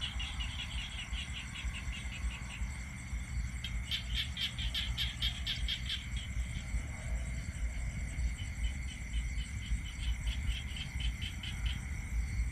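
Night insects chirping in rapid, evenly spaced pulses, about five a second, in runs that stop and start, over a steady high-pitched drone and a low rumble. No thunder.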